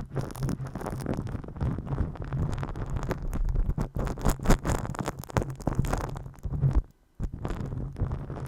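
Close-up ASMR massage sounds: hands rubbing and scraping over a sensitive microphone, a dense rustling with a low rumble, broken by a brief drop-out about seven seconds in.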